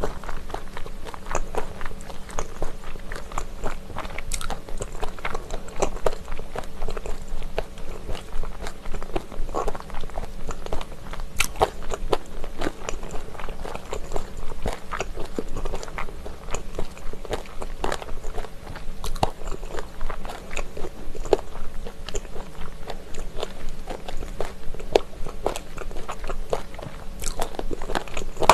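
Close-miked chewing of spicy Korean chicken feet (buldakbal): a dense, continuous run of crisp crunches as the cartilage is bitten and chewed.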